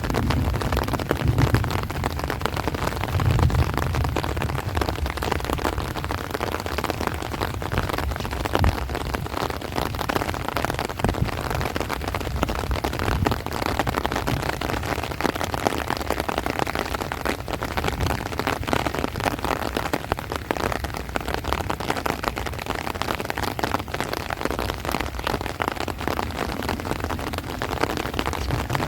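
Heavy rain falling steadily on rice plants and trees, a dense, crackling patter of drops. A low wind rumble runs under it and is strongest in the first few seconds.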